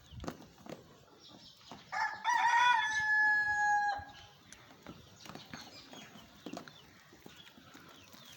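A rooster crowing once, a call of about two seconds that wavers at first and then holds a long flat final note. Faint scattered knocks and rustles sound around it.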